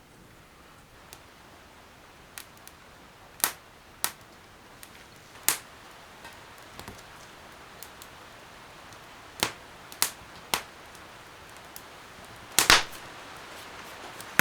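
A string of sharp, irregular cracks and knocks, about a dozen, with the loudest double crack near the end, over a steady hiss that slowly grows louder.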